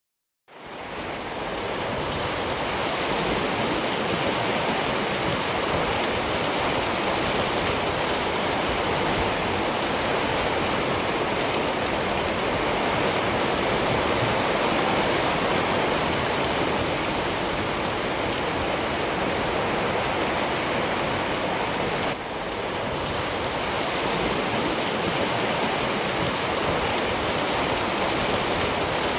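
Steady heavy rain, a dense even hiss of drops, fading in over the first second or two.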